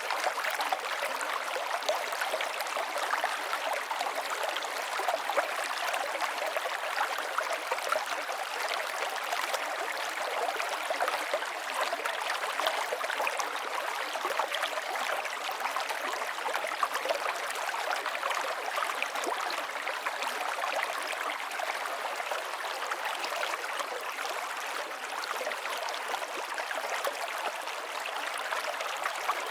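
River water flowing: a steady rush with many small splashes and gurgles, bright and hissy, with little low rumble.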